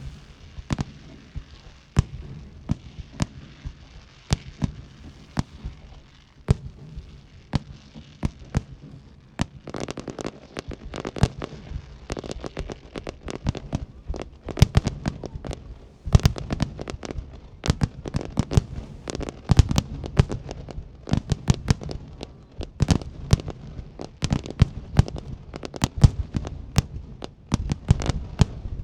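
Aerial fireworks display: a continuous barrage of shell bursts and bangs over a deep rumble, fairly sparse at first, then growing much denser and louder about ten seconds in.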